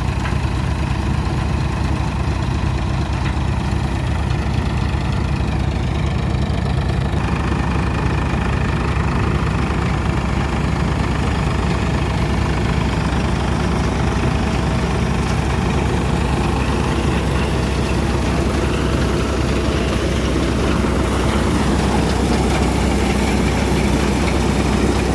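Farmtrac tractor's diesel engine running steadily, a low, even engine sound with no change in speed.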